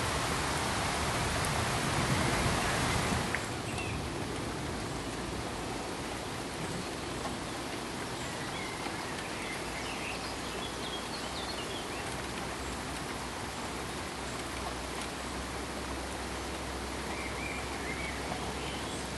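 Steady pink noise, an even hiss that steps down abruptly to a softer level about three seconds in and then holds steady. Faint short high specks are scattered through the quieter part.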